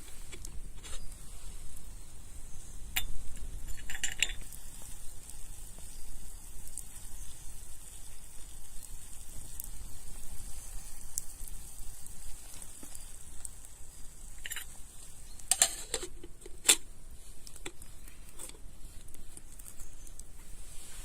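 Steady sizzling hiss with scattered sharp clinks of utensils against a pan, a few of them close together about three-quarters of the way through.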